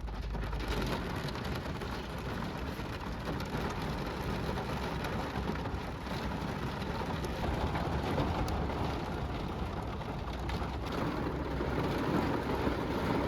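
Heavy rain falling steadily, a continuous hiss of rain.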